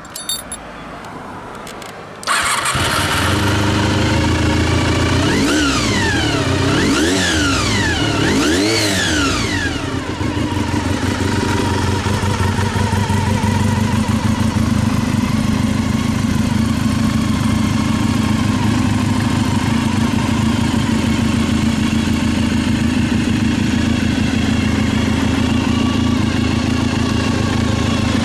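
Honda RVF400's V4 engine cranked by its starter for about two seconds, catching, then blipped three times before settling into a steady idle.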